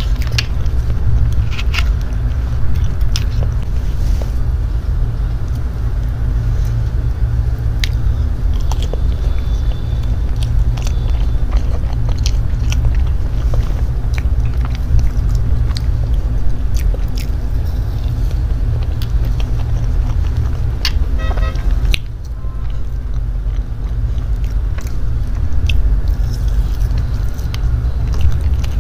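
Close-miked chewing and biting of soft matcha mousse cake, with wet mouth clicks scattered throughout. A steady low rumble runs underneath.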